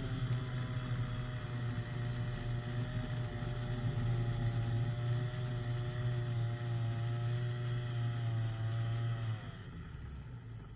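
Powered hang glider engine running steadily with a slightly wavering pitch, then winding down and stopping about nine and a half seconds in. It is the engine that lost power after the pin holding a piston ring melted into the piston groove.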